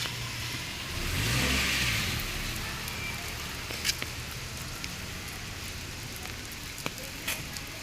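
Steady light drizzle with scattered drop ticks. A car passes about a second in, its engine swelling and then fading.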